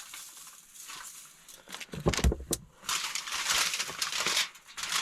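Aluminium foil being handled and crinkled, with a few knocks about two seconds in and dense crinkling from about three seconds on.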